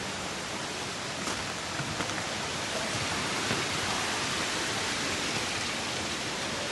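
Steady rushing noise of falling or running water, swelling slightly midway.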